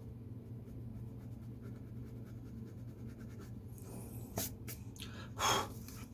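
Drawing strokes on paper, faint scratching, with a sharp click about four and a half seconds in and a louder short scratch about a second later, over a steady low room hum.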